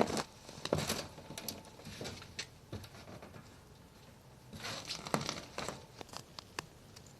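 Wood campfire crackling: irregular sharp pops and snaps, bunched in clusters with quieter spells between.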